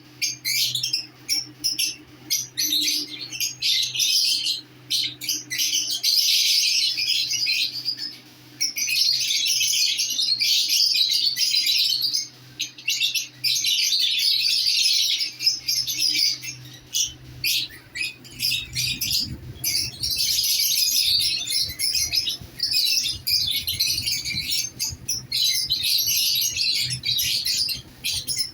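Lovebirds chattering: dense runs of rapid high-pitched chirps and squawks, broken by short pauses.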